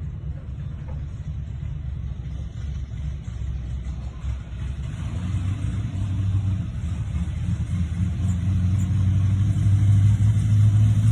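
Classic muscle car engine rumbling. It grows steadily louder over the second half and settles into a deep, even note, as if the car is closing in.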